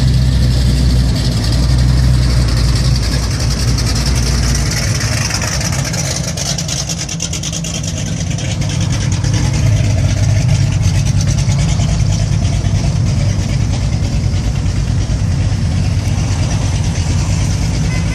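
Classic car engines rumbling deep and steady as the cars roll slowly past; the rumble eases about eight seconds in, then builds again.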